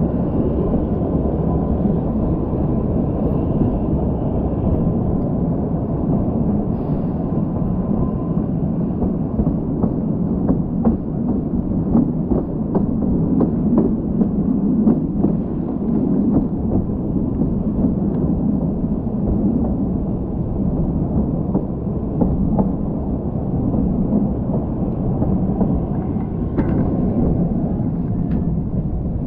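Narrow-gauge Kalka–Shimla toy train running along the track: a steady rumble of the coaches rolling on the rails, mixed with wind buffeting the microphone held out of the coach window. Scattered sharp clicks come through in the middle stretch.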